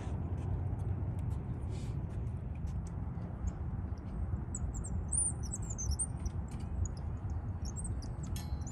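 A small bird chirping in short, very high calls from about four and a half to eight seconds in, over a steady low rumble.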